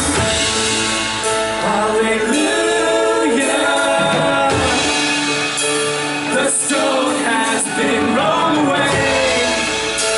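Live worship music: a band with voices singing together, loud and continuous.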